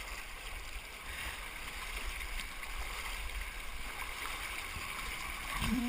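Creek water rushing steadily around a pinned canoe, with a short voice sound near the end.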